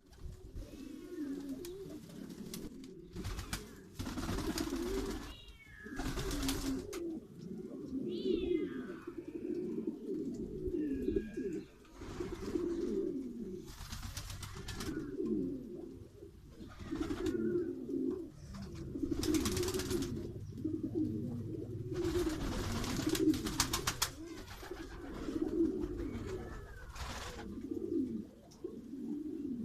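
Several domestic pigeons cooing continuously, their low calls overlapping, with loud bursts of rustling noise several times and a few higher chirps.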